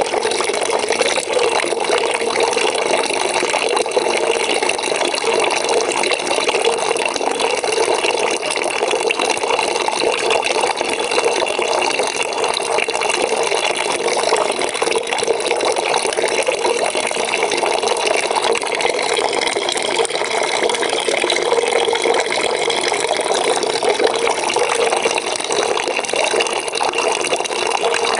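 Water from a tap pouring steadily into a bucket, a continuous splashing rush.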